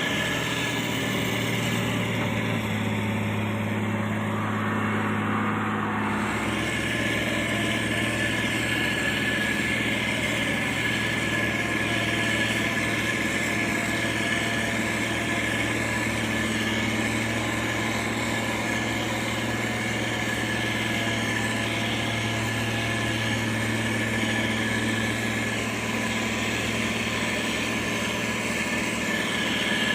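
Diesel engine of heavy road-construction machinery running steadily at a constant pitch, with a slight change in tone about six seconds in.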